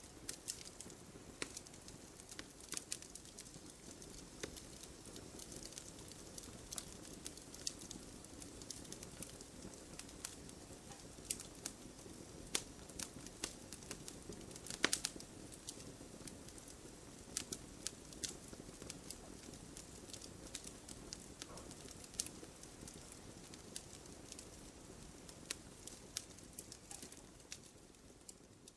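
Wood campfire burning, with irregular sharp crackles and pops over a soft, steady low rush; the loudest pop comes about halfway through.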